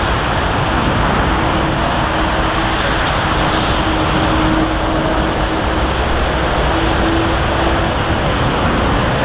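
Jet engines of an ANA Boeing 787-9 airliner making a steady, loud rushing noise with a faint humming tone running through it.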